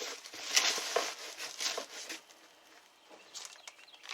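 Rustling and light knocks of packaging and parts being handled while a soldering station is unpacked, a scatter of small irregular taps and crinkles.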